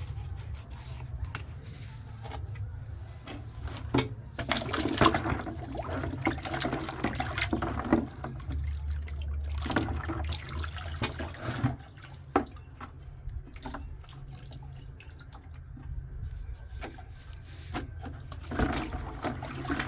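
Water running and splashing in bursts over a steady low machine hum, with a few clicks and knocks.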